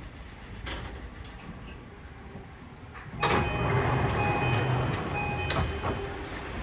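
Electric commuter train's sliding doors at a stop: a low rumble at first, then a sudden loud clatter about three seconds in, with repeated chime tones sounding over it.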